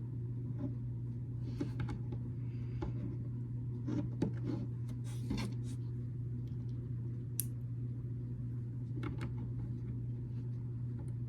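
Scattered light clicks and taps of small plastic building bricks being handled and pressed together, a few strokes every second or so, over a steady low hum.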